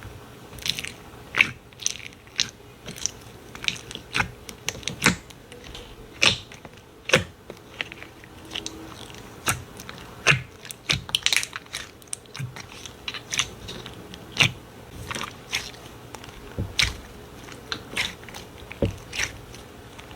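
Slime being squeezed and pressed by hand, making irregular sharp pops and crackling clicks, a few each second.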